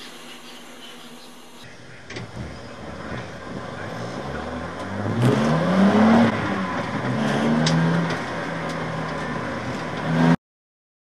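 BMW Z4 Coupe race car engine heard from inside the cabin: running low and steady at first, then pulling away with the revs rising and stepping up through gear changes, then holding a steady pitch until the sound cuts off suddenly near the end.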